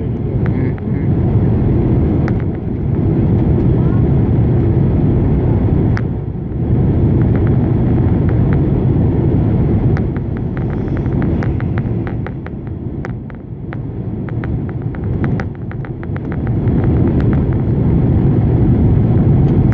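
Steady low rumble inside the cabin of a Boeing 767 during its landing, with many quick clicks and rattles, thickest a little past halfway.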